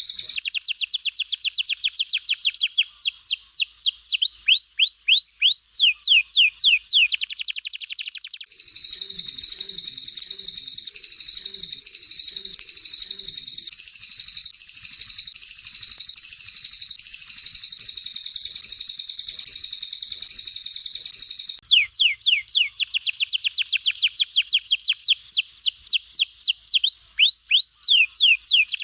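Songbird song for training, alternating between two birds, a canary and a cililin. A rapid series of sharp, down-slurred whistled notes gives way, about eight seconds in, to a long continuous high rolling trill. The down-slurred series returns about twenty-two seconds in.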